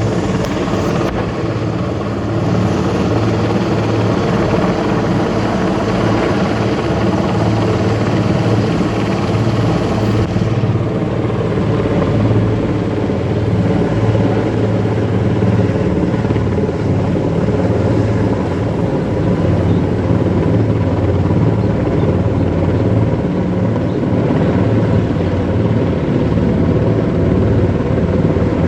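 Helicopter running steadily, a loud, even machine sound; its high hiss fades out about ten seconds in.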